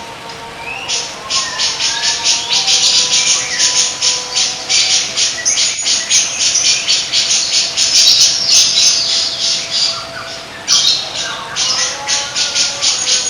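Songbird giving loud, harsh chattering notes repeated about four times a second, with a short break near the end, over softer whistled notes from other birds. It is one of the songbird recordings used to train cage birds.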